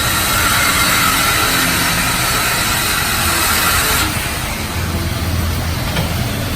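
Steady mechanical noise with a motor vehicle engine running. About four seconds in the sound changes abruptly and becomes quieter and duller.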